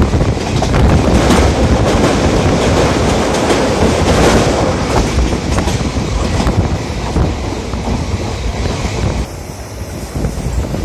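Moving train running along the track, its wheels clattering over the rail joints with a steady rumble; the noise eases somewhat about nine seconds in.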